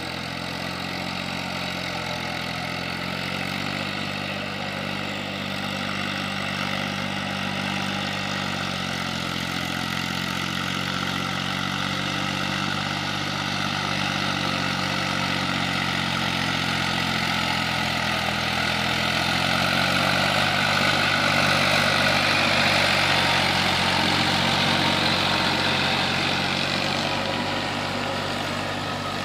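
Eicher 480 tractor's diesel engine running steadily, growing louder over the second half and easing back slightly near the end.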